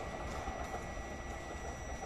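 Train running through the station on the rails: a steady rolling noise of wheels on track.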